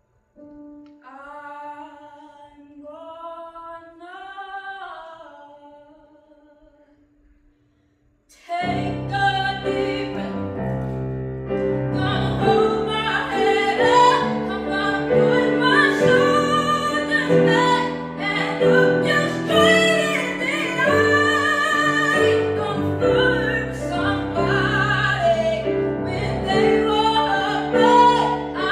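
A woman singing a ballad. She opens with a soft phrase over a single held keyboard note, then after a short pause a full band with piano comes in loudly about eight seconds in, and she sings on over it.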